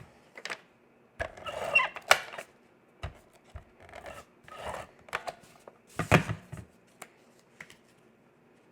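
Cardstock pieces being handled, slid into place and pressed together: scattered rustling and scraping with light clicks and taps, the loudest a sharp knock about six seconds in.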